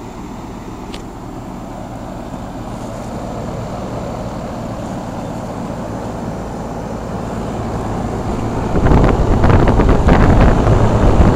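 Steady low hum of running central air-conditioner condensing units, growing slowly louder, with heavy wind buffeting on the microphone over the last few seconds.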